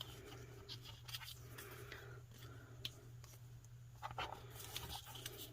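Paper ephemera and stickers being handled and shuffled by hand: faint, irregular rustles and small paper clicks.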